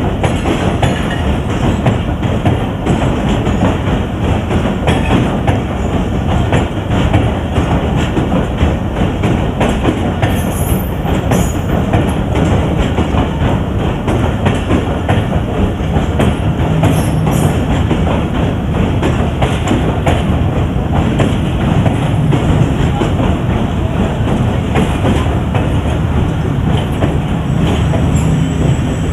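Pakistan Express passenger train running along the track: a steady rumble with wheels clattering over the rail joints, and brief high wheel squeals about ten and seventeen seconds in.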